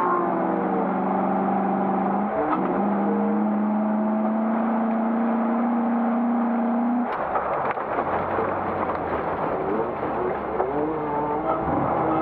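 1991 Classic Range Rover's 3.9-litre V8 engine pulling at steady revs, with a brief dip about two seconds in. About seven seconds in it drops abruptly to low revs amid a noisier, clattering sound, then climbs again near the end.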